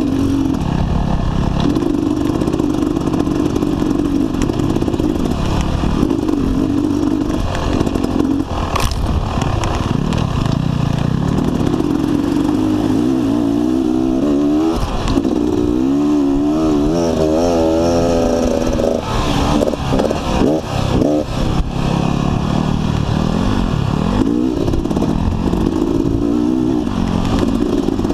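Dirt bike engine running as it is ridden over a rough sandy trail, the revs rising and falling repeatedly in the middle stretch as the throttle is worked, with the bike clattering over the bumps.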